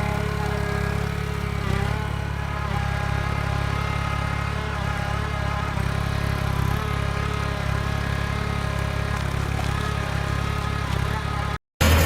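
A tractor-mounted forestry harvester, a Valtra tractor carrying a Nisula 325H harvester head, is running steadily: a low engine drone with a steady high whine above it. The sound cuts off abruptly near the end, then comes back louder and harsher.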